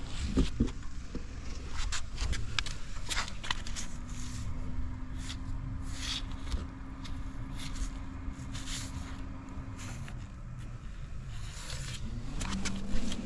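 Suzuki Address V125S scooter's single-cylinder four-stroke engine running at idle. A steady hum drops about ten seconds in and rises again briefly near the end, with scattered clicks and knocks over it. The seller describes the engine as free of abnormal noise.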